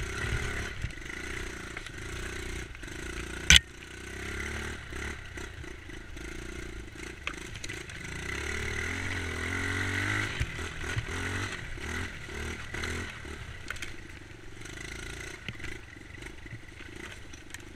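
Dirt bike engine running while riding, its pitch rising and falling with the throttle and climbing for a couple of seconds near the middle, with rattling and scraping along the way. A single sharp knock comes about three and a half seconds in.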